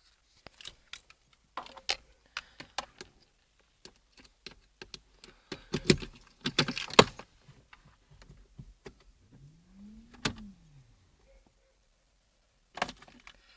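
Keys jangling amid scattered clicks and knocks, louder for a moment about six to seven seconds in, with a brief tone that rises and falls about ten seconds in.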